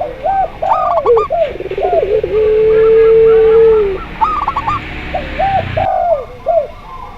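Several doves cooing together: local zebra doves, spotted doves and a puter pelung dove. Quick rising-and-falling coo notes come throughout, with one long, steady, drawn-out low coo starting about two seconds in and lasting nearly two seconds. A faint hiss lies under the middle and cuts off about six seconds in.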